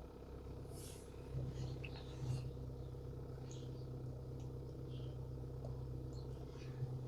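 Renault 2.2-litre engine of a Winnebago Lesharo idling steadily as a low hum that firms up a little about a second in. Small birds chirp faintly over it.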